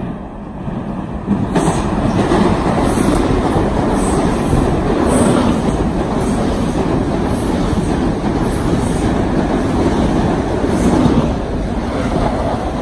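Metro-North M7A electric multiple-unit commuter train passing close by the platform, a loud steady rush of wheels on rail that swells about a second and a half in. Faint clicks come roughly once a second.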